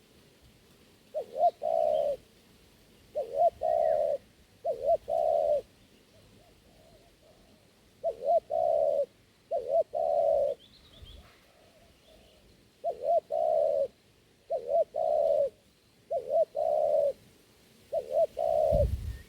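Spotted dove cooing. It repeats a low phrase of two short notes and then a longer coo, about nine times, with short pauses between.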